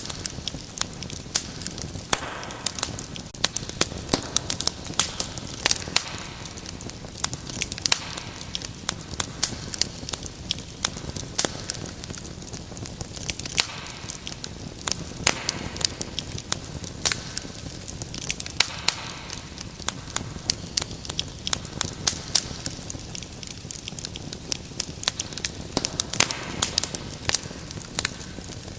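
Wood fire in a fireplace crackling: frequent, irregular sharp pops and snaps over a soft steady hiss of burning.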